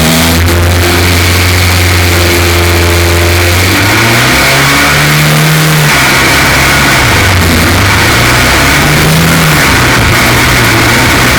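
F2 stock car engine running loudly at a steady note, then revving up and back down twice, from about four seconds in and again near nine seconds. The engine has a misfire caused by a cracked spark plug.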